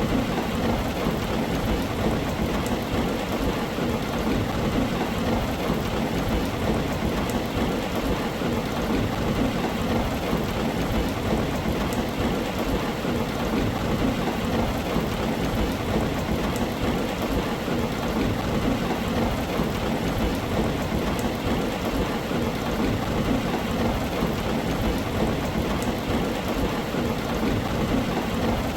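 Heavy rain falling steadily on a tin roof: a dense, even wash of drops with a strong low rumble underneath, unchanging throughout.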